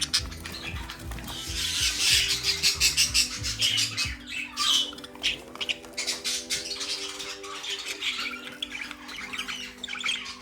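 English budgerigars chattering and squawking in short, rapid calls, over background music of soft held notes whose low bass line stops about four seconds in.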